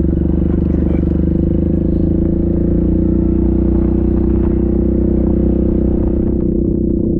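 Yamaha Grizzly 700 ATV's single-cylinder engine running loud and steady at an even pitch, with a few faint clicks near the end.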